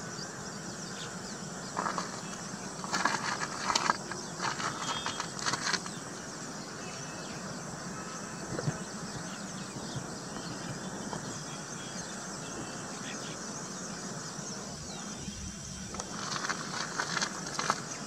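Weaver birds chattering in short bursts, a couple of seconds in, again from about three to six seconds and near the end, over a steady high insect hiss.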